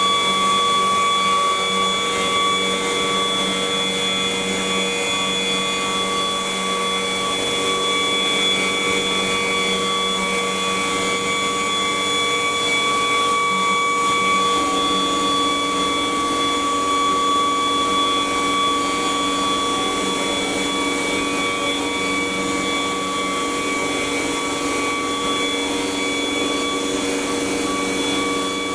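CNC wood router's spindle running steadily with a high, constant whine over a machine hiss, typical of the router carving a wooden panel.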